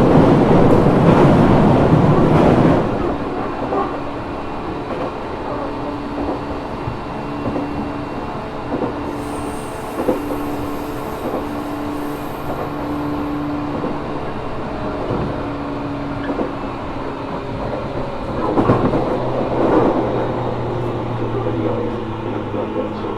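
Interior sound of a JR Kyushu 415-series 1500-subseries electric train car, a car singled out for its odd running noise. The loud rumble drops away about three seconds in, leaving a quieter steady hum with several held tones, and two short noisy swells come near the end.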